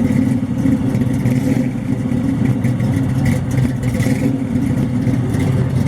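Car engine running steadily at idle, a constant low exhaust rumble with no change in pitch.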